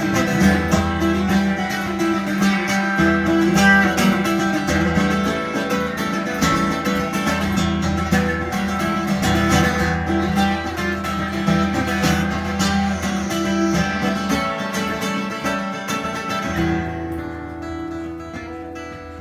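Acoustic guitar strummed and picked in an instrumental passage, thinning out and getting quieter near the end.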